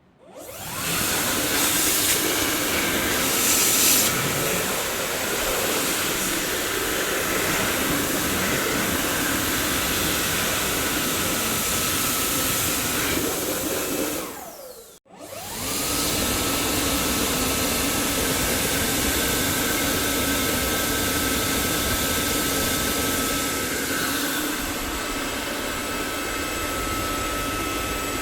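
Dyson vacuum cleaner switched on, its motor spinning up within about a second into a steady whirring rush of air. About fourteen seconds in it is switched off and winds down with a falling whine. It is switched straight back on, and the whine rises again and settles into a steady high tone over the airflow noise.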